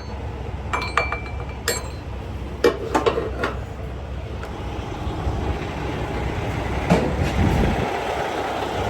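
Metal clinks and knocks from handling a tie-down strap's hook and hardware on a flatbed trailer: a few short ringing clinks in the first two seconds, a cluster of knocks about three seconds in and another near seven seconds, over a steady low rumble.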